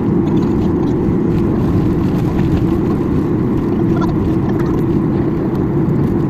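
Steady low rumble inside the cabin of a Boeing 737-800, its CFM56-7B engines running at idle on the ground before takeoff.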